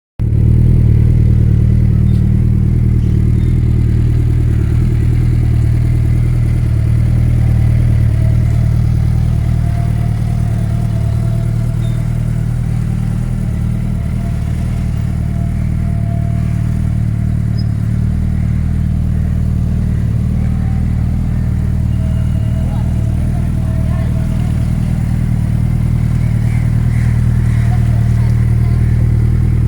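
Suzuki Hayabusa's inline-four engine idling steadily through an aftermarket Jardine exhaust.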